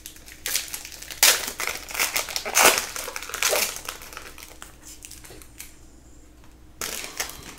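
Crinkling of a trading-card pack's foil wrapper being handled and torn open, in a run of crackly bursts over the first few seconds and another short burst near the end.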